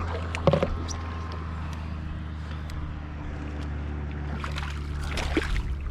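Steady low motor hum with a few short knocks and splashes, about half a second in and again near the end, as a hooked ladyfish is fought at the side of a kayak.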